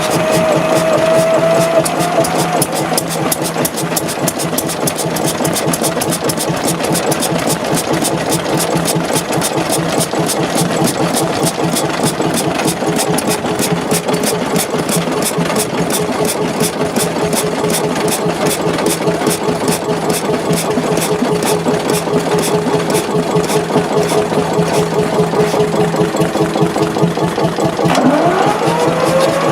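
Diesel engine running steadily with a rapid, even knock. A whine fades out in the first couple of seconds, and another whine rises in pitch near the end.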